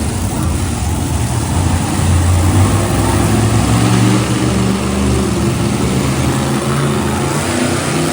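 Big monster truck engines running loud, their pitch shifting up and down as they rev.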